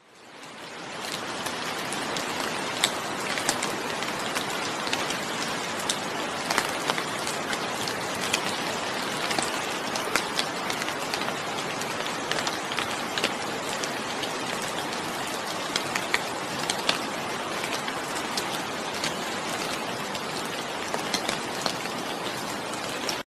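Steady rain with frequent sharp clicks of individual drops. It fades in over the first second or so and cuts off suddenly at the end.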